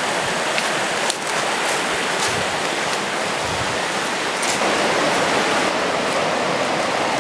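Steady rushing of a mountain river's rapids and falls, an even, unbroken noise.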